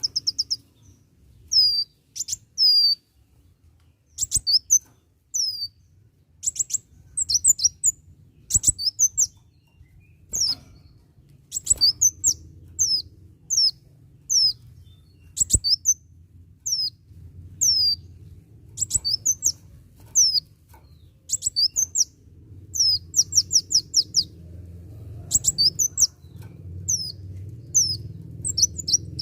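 Kolibri wulung sunbird singing a rapid, high-pitched song of short downward-sweeping chirps in quick bursts of three to six notes, over and over, with a low hum in the background that grows louder near the end.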